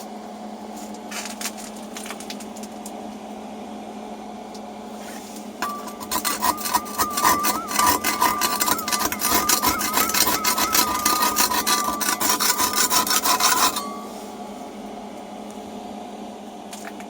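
Rapid back-and-forth scraping of soot and tar deposits inside a Stropuva solid-fuel boiler, with a wavering metallic ringing, for about eight seconds from about six seconds in, after brief lighter scrapes near the start. A steady low hum runs underneath throughout.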